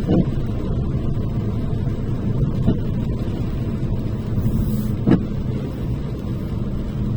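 Car cabin noise while driving: a steady low road and engine rumble, with a short thump about every two and a half seconds.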